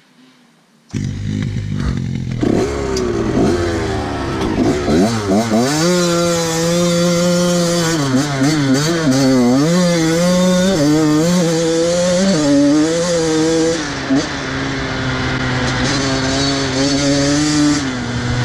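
Off-road vehicle engine starting up loudly about a second in and revving, its pitch sweeping up and down, then running under steady throttle with small rises and falls.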